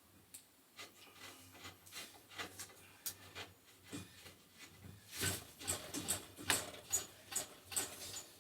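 Irregular small clicks and scrapes of hand tools working a threaded gas fitting, getting busier and louder about halfway through.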